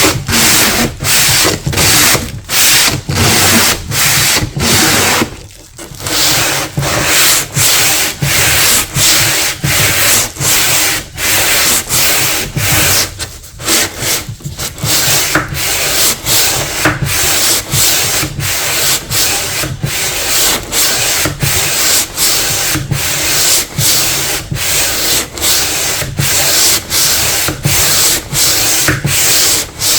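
Hand sanding to strip old paint and finish: quick back-and-forth strokes of abrasive rubbing, about two a second, pausing briefly twice.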